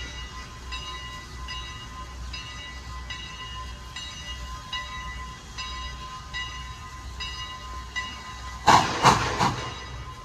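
A railroad bell ringing at a slow, even pace, a stroke about every three quarters of a second, over a low rumble. Near the end there is a short, loud, rushing burst in three quick pulses.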